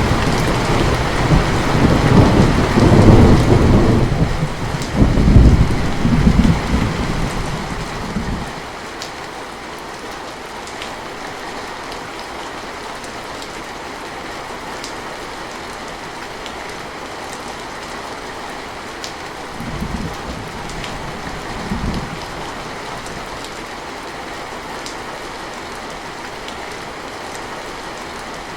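Steady rain with rolling thunder: a long, loud low rumble for the first eight seconds or so that dies away, leaving the even hiss and patter of rain. About two-thirds of the way through, two brief low rumbles of thunder.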